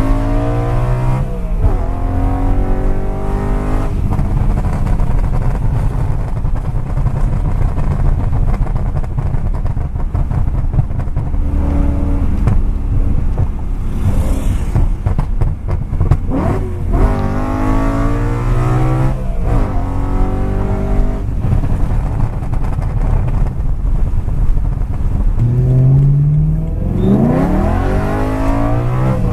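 Car engines running loud, with several revs and pitch sweeps up and down as cars accelerate and pass, over a steady low engine rumble.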